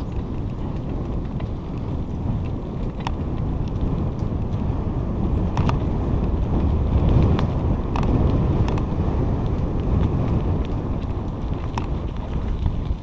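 Wind buffeting the microphone in a steady low rumble that swells a little midway, with a few faint clicks.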